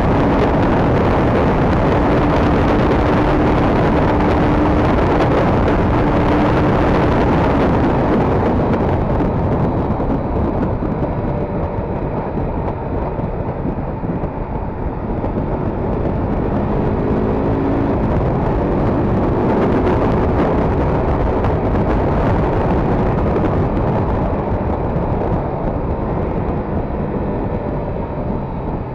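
Motorcycle ride at speed: loud wind rush on the microphone over the KTM RC 390's single-cylinder engine. The rush thins out about eight seconds in, and the engine note then rises and falls.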